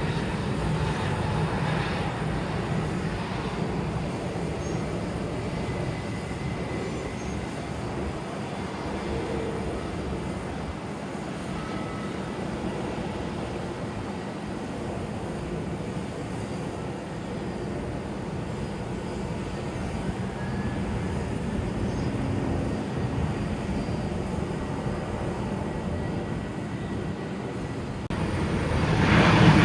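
Jet airliner engines at an airport: a steady rumble with a faint whine that eases slightly midway, then grows sharply louder near the end as an aircraft comes close.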